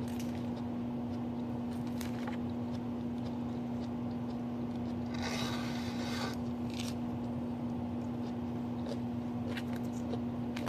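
Steady low hum with a few light clicks and a brief scraping rustle about five seconds in, from a fork working through a salad in its container.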